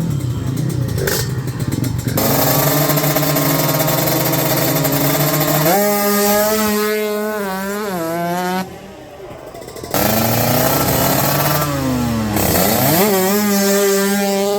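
Drag-racing motorcycle engines accelerating hard through the gears, the pitch climbing and dropping back at each upshift, with several abrupt breaks and a quieter stretch about nine seconds in.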